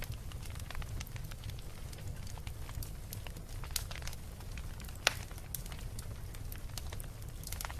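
Beach bonfire crackling, with frequent sharp pops of burning wood and one louder pop about five seconds in, over a steady low rumble.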